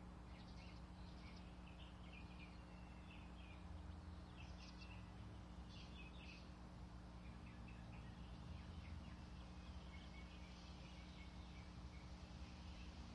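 Faint scattered bird chirps and short calls over a steady low hum.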